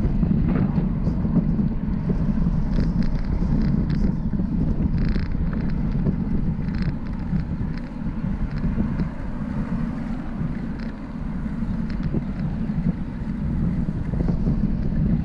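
Wind buffeting the microphone of a camera riding on a moving bicycle: a steady low rumble, with a few faint clicks.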